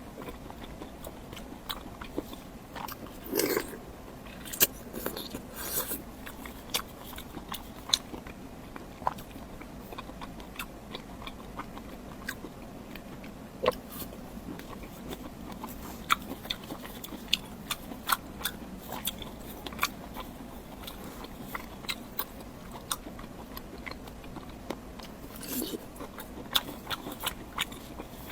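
Close-miked eating: a person biting and chewing food, with irregular wet clicks and smacks and a few louder crunchy bites.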